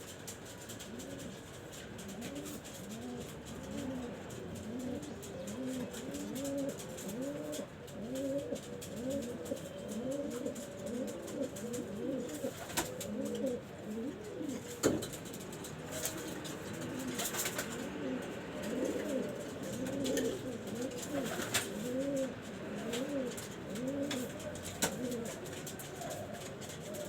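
Pigeons cooing over and over, a long run of low, rising-and-falling coos, with a few sharp clicks in the middle.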